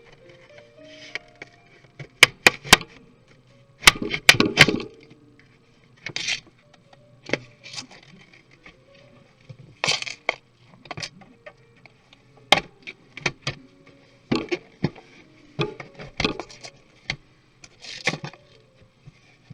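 Plastic laptop casing parts and small tools clicking, knocking and snapping as an NEC laptop is taken apart, in irregular sharp strikes, some in quick groups of two to four.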